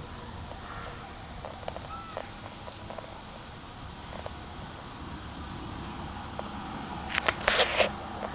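A bird repeating short, high, rising chirps, roughly one every half second to a second. Near the end comes a brief cluster of sharp clicks.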